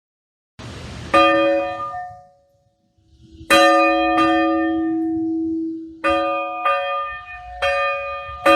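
Church bell rung with about seven strokes at uneven intervals, each stroke ringing on and overlapping the next.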